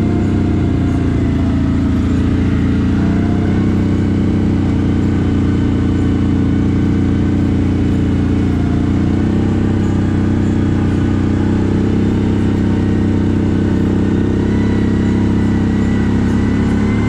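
CFMoto 1000 ATV's V-twin engine running at a steady, low pace, with an even drone throughout.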